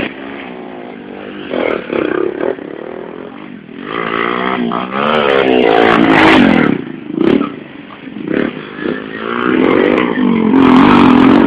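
Small 110cc motorcycle engines revving and running past, their pitch rising and falling, loudest about halfway through and again near the end.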